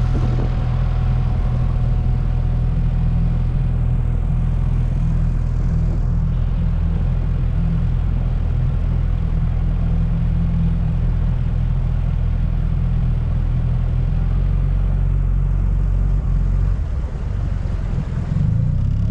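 Inflatable boat's outboard motor running at low, steady speed, with a dip in level and a shift in pitch about 17 seconds in. The motor is faulty: it putters, stalls a little and won't go past about 5 mph, which the owner is pretty sure is a cylinder problem.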